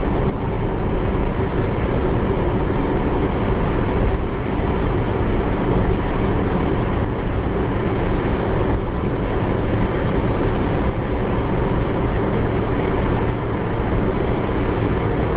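Steady road and engine noise heard from inside a moving car's cabin, a dense low rumble that stays even throughout.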